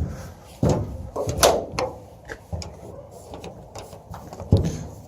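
A string of sharp clicks and knocks, about half a dozen over a few seconds, from newly fitted aftermarket hood pins and the car's hood being worked by hand.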